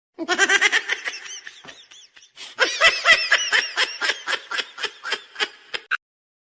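Laughter: a long run of quick, high-pitched laughing pulses, about six a second, pausing briefly around two seconds in before starting again.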